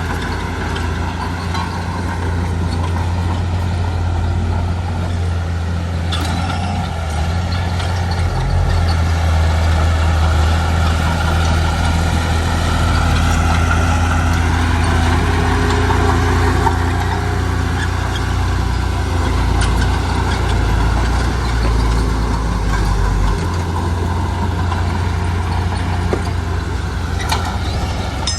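Heavy diesel construction machinery, a bulldozer or dump truck, running steadily with a deep engine drone that shifts pitch a couple of times as the load changes.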